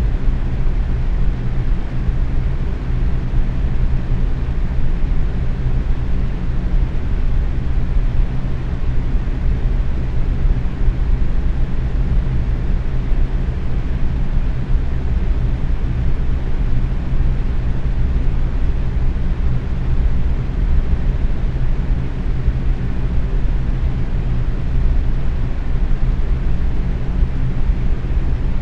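Box fan running at medium speed: a steady whoosh of moving air with a low hum from the motor and blades.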